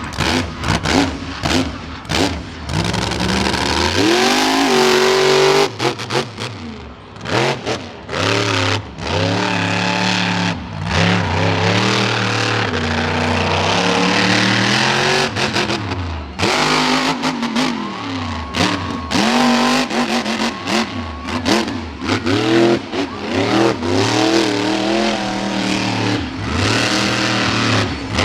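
Monster truck engine revving hard and falling off again and again. The pitch rises and sags throughout, with many sharp cut-outs where the throttle is chopped.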